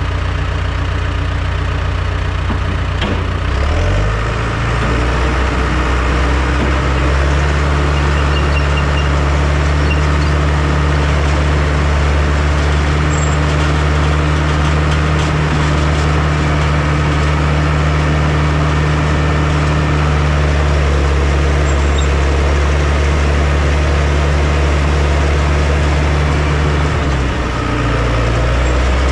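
Heavy machinery engine running, speeding up a few seconds in and holding the higher speed, then dropping back to a lower speed near the end.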